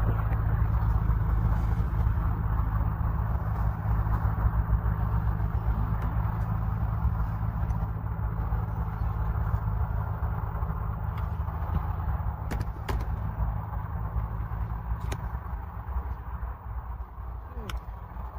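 A motor vehicle's engine running steadily, a low hum that slowly fades away toward the end. A few light clicks and knocks come through over it.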